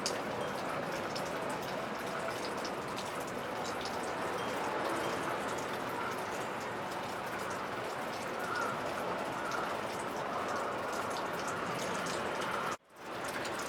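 Many Japanese furin wind chimes tinkling together in the wind, a dense, continuous clinking with a few short ringing tones showing through. The sound drops out for a moment near the end.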